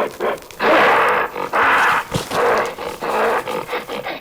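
A gorilla calling in a run of rough, noisy vocalizations, several in a row, each about half a second long.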